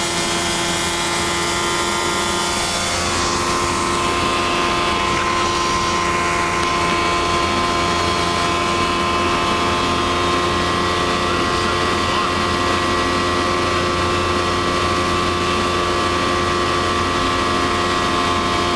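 Kitfox light aircraft's engine and propeller running steadily in flight, a constant drone with a slight change in pitch about three seconds in.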